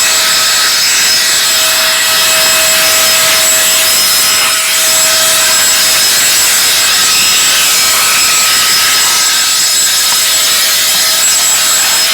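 Electric air blower drying a boat, a loud steady rush of air over a constant motor whine.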